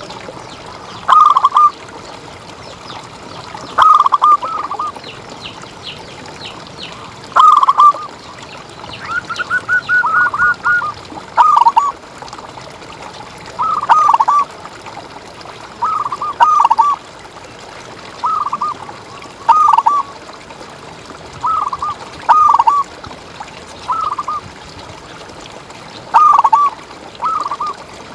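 Zebra dove (perkutut) cooing: short phrases of a few quick notes, repeated about every two seconds, with a faster run of notes about ten seconds in.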